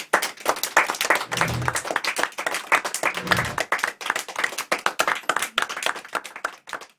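Audience applauding, a dense patter of many hand claps.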